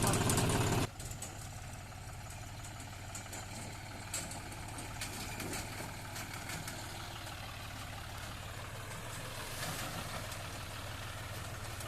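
John Deere tractor's diesel engine running steadily, its level dropping abruptly about a second in and then holding at a lower, even hum.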